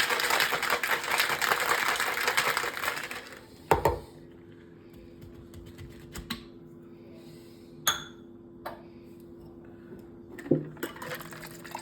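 Ice rattling rapidly inside a cocktail shaker being shaken hard, stopping after about three and a half seconds, followed by a single sharp knock and then a few faint clicks and taps.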